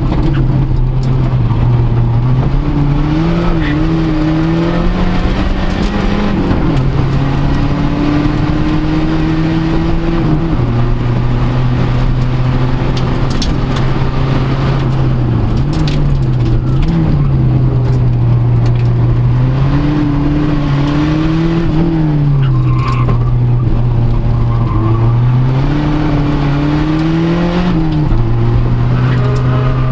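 A Fiat Uno Turbo i.e.'s turbocharged four-cylinder engine at full effort in a hillclimb run, heard from inside the cabin. The revs climb in each gear and fall sharply at each gear change, several times over.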